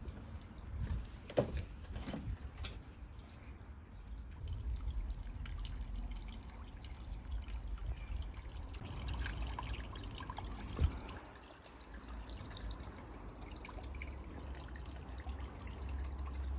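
Liquid trickling and dripping over a steady low rumble, with a couple of sharp clicks, one near the start and one about two-thirds of the way through.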